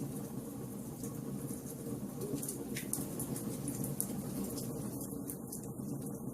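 Wood fire burning in a fireplace, crackling with irregular sharp pops over a low, steady rush of flame.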